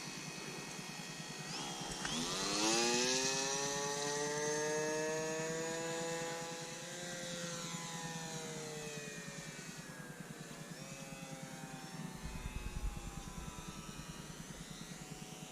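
RC seaplane's motor run up to high throttle about two seconds in, holding a high whine. It eases off over several seconds, with a brief burst of throttle past the middle, then runs at lower power. A low bump comes near the end.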